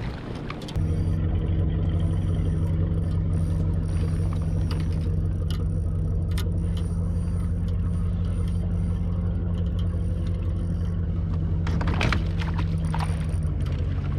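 A steady, low motor drone that starts abruptly just under a second in and holds even throughout, with a few faint clicks near the end.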